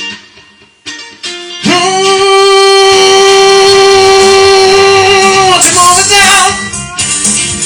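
Song with acoustic guitar: a few quiet plucked notes, then a single long held sung note that lasts about four seconds before the guitar picks back up.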